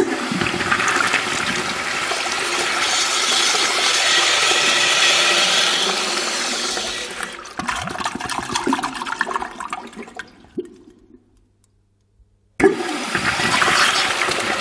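Urinal flushing: a loud rush of water for about seven seconds that tapers into gurgling and trickling and stops. After a brief silence near the end, a second flush starts suddenly.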